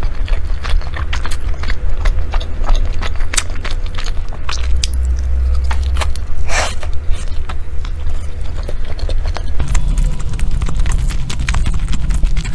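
Close-miked eating: chewing sticky glutinous rice and fatty pork from a savoury zongzi, with many wet lip smacks and mouth clicks and a short hiss about six and a half seconds in.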